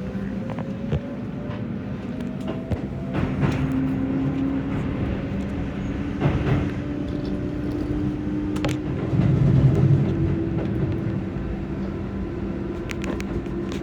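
Keihan electric train running, heard from the driver's cab: a motor whine rises slowly in pitch over the first few seconds and then holds steady over a constant running rumble, with a few sharp clicks along the way.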